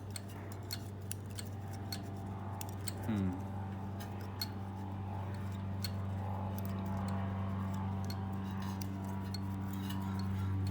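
Light metallic clicks and scrapes of small hand tools, as a feeler gauge and wrench are worked on the pressure washer engine's valve adjuster to set its clearance. A steady low hum runs underneath, and there is a brief falling squeak about three seconds in.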